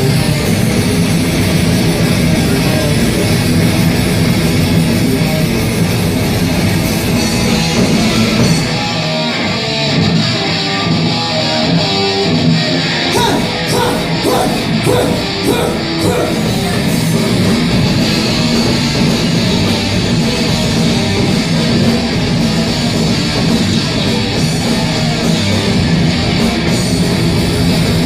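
A live heavy rock band playing loud distorted guitars and drums. About eight seconds in, the bass end drops away for a few seconds, then the full band comes back in with a run of sharp drum hits.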